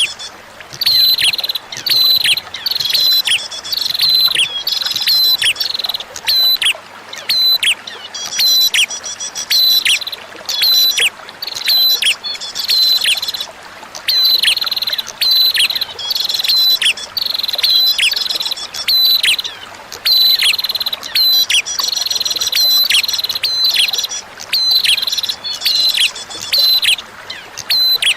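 Prinia (prenjak) song: rapid chirping phrases repeated about once a second, each with sharp falling notes, over a faint steady trickle of flowing water.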